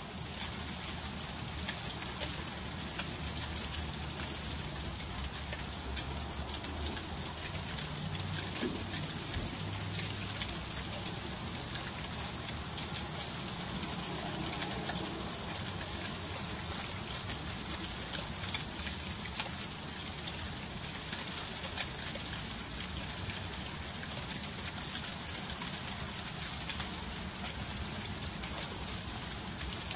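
Freezing rain falling steadily: a dense patter of fine ticks as drops hit icy surfaces, with a faint low rumble underneath.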